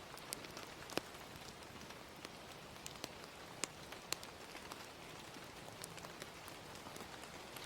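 Soft, steady hiss of gentle rain with the sharp, irregular pops and crackles of a wood fire, the clearest about a second in and around three and a half to four seconds in.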